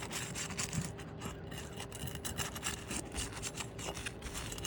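Asphalt roof shingle being gently worked loose, a run of irregular scraping and rubbing against its gritty surface.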